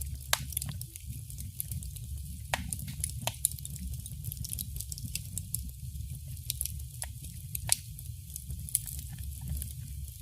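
Wood fire burning in a fireplace: irregular sharp crackles and pops over a low steady rumble of the flames, with a few louder pops standing out.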